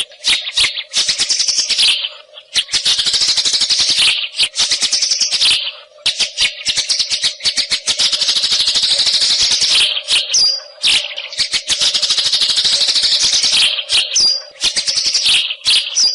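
White-rumped shama singing in long, rapid, rattling chattering phrases, broken by short pauses about two and six seconds in, with a few brief high whistled notes near the end. A faint steady low hum runs beneath.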